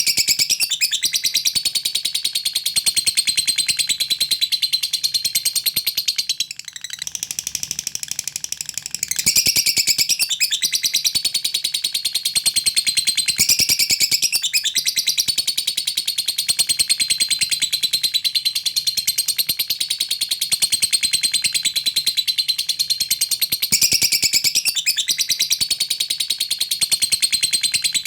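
Lovebird chattering in one long, unbroken run of rapid, high-pitched ticking notes: the continuous 'ngekek' song. There is a briefly softer stretch about seven seconds in.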